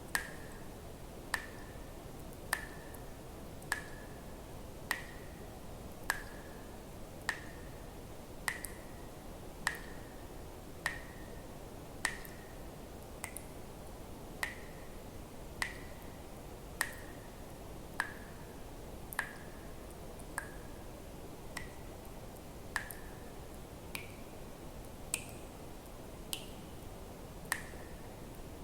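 Water drops falling one at a time into water at a very even pace, about one every 1.2 seconds, each a sharp plink with a brief high ringing tone, over a steady soft hiss.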